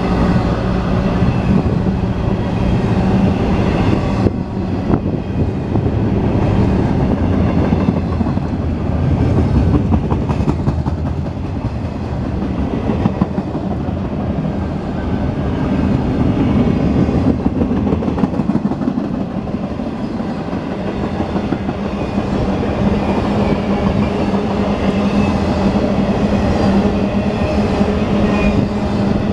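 Intermodal freight train cars, double-stack container well cars and trailer flatcars, rolling past close by: a continuous rumble of steel wheels on rail with quick clicking over the rail joints and a steady low tone underneath.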